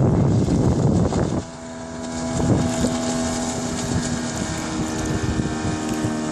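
Suzuki DT140 two-stroke outboard motor running on a motorboat. At first heavy wind and water rush cover it; about one and a half seconds in the rush drops away and the engine's steady hum comes through clearly.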